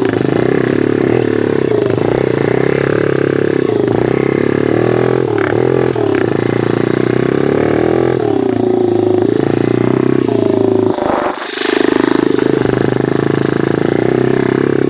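Pit bike engine running under way, its pitch rising and falling with the throttle, with a few knocks from the ride. About 11 seconds in it briefly drops off, then picks up again.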